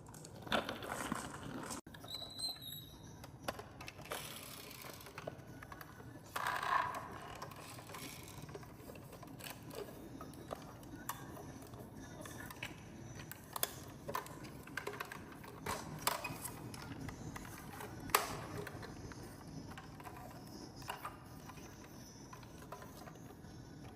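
Marbles rolling down a wooden marble run: a steady rolling rumble with many scattered clicks and clacks as they knock against the wooden track, a few sharper knocks standing out.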